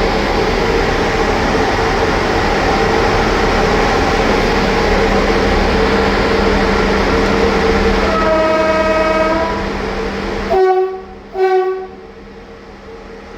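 Romanian class 060-EA electric locomotive running with its train, a steady rumble with a hum. About eight seconds in a horn sounds for over a second, then two short horn blasts follow, and the running noise falls away afterwards.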